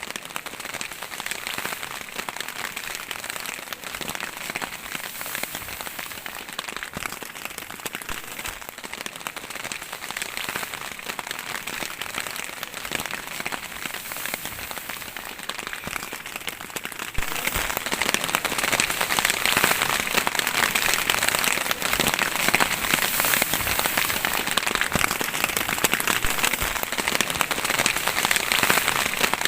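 Rain falling steadily, a dense patter of many drops, becoming heavier about two-thirds of the way through.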